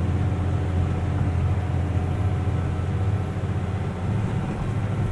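Mercedes-Benz Unimog U500's turbo diesel engine running steadily at low road speed, heard from inside the cab. Its drone eases off a little in the second half.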